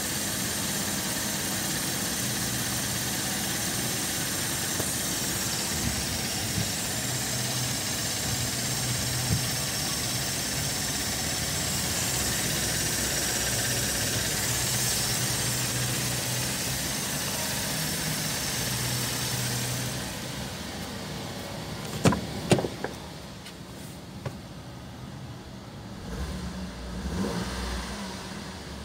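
Holden Commodore 3.6-litre V6 engine running steadily. About two-thirds of the way through it turns quieter and more muffled, as heard from inside the cabin, with two sharp knocks. Near the end there is a brief rise in revs.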